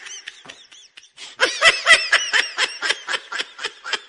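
High-pitched laughter in quick repeated bursts, about five a second, soft at first and louder from about a second and a half in, then fading, used as a phone ringtone sound effect.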